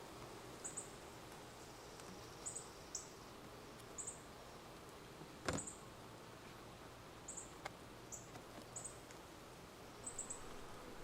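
A low steady hum of agitated honeybees around an opened hive, with a bird's short high chirps about once a second and one sharp click about halfway through.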